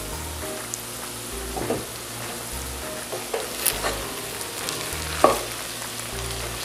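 Cut okra frying in oil in a nonstick pan on low heat, with a steady light sizzle, while a wooden spatula stirs and scrapes through it a few times.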